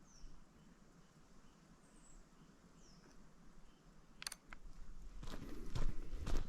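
A few faint, short, falling bird chirps over quiet outdoor background, then a person's footsteps on the road start about four seconds in and grow louder.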